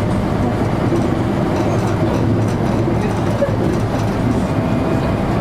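JR local electric train running at speed, heard from inside the car: a steady rumble with a faint motor whine.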